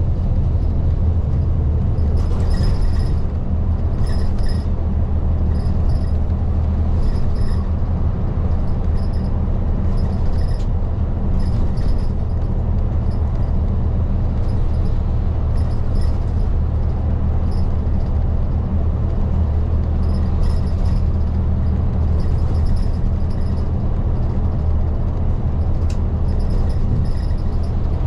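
Isuzu Erga city bus running along the road, heard from inside the cabin: a steady low diesel engine drone with tyre and road noise. Faint light clicks recur about once a second.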